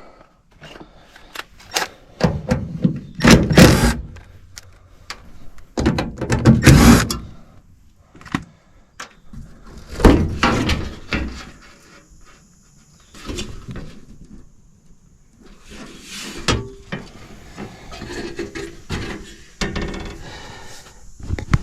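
Sheet-metal access panels of a Goodman gas furnace being taken off: a series of clunks, thumps and scraping knocks as the doors are handled, with several louder knocks spread through.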